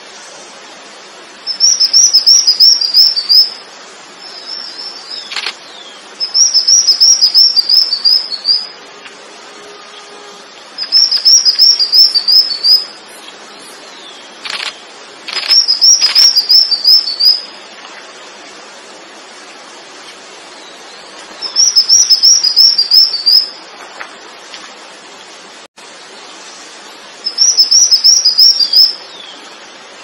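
A songbird singing short phrases of rapid, high, slurred notes, each phrase lasting about a second and a half and repeated seven times with pauses of a few seconds between them. A few faint sharp clicks fall among the phrases.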